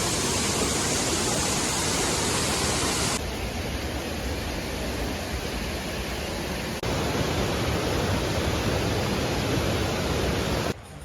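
Steady rushing of a waterfall, its sound changing abruptly about three and about seven seconds in, then stopping short just before the end.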